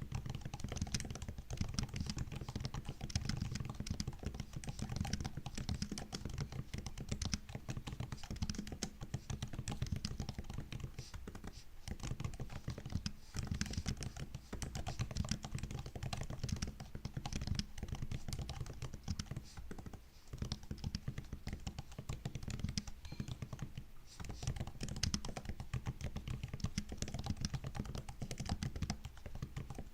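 Fast continuous typing on a MacBook's laptop keyboard, a dense patter of light key clicks with a few brief pauses.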